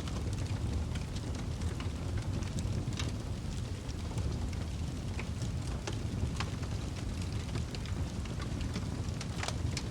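Wood fire burning in a fireplace: a steady low rumble with scattered sharp crackles and pops, several of them close together about half a second before the end.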